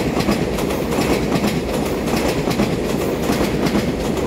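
Taiwan Railways EMU3000 electric multiple unit running past at close range: a steady rumble of wheels on rail with rapid clicking of wheels over the rail joints.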